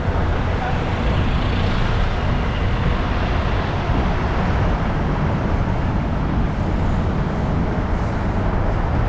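Steady road-traffic noise heard from a moving bike: a dense low rumble of vehicles and road, unbroken throughout.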